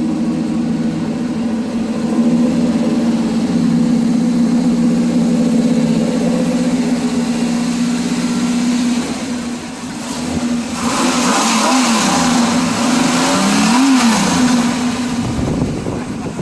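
A car engine idling steadily, then given short throttle blips that rise and fall in pitch, the last and sharpest about fourteen seconds in.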